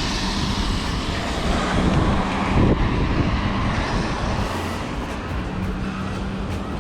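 Car tyres hissing on a wet road as traffic passes, with wind noise on the microphone. The hiss is strongest in the first few seconds and eases slightly after that.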